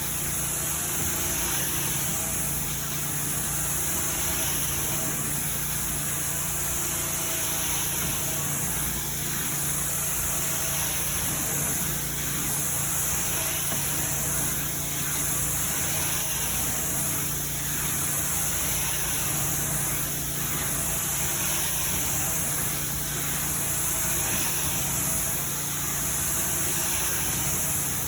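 Carpet-cleaning equipment running steadily: a constant machine hum under a loud, high hiss of rushing air.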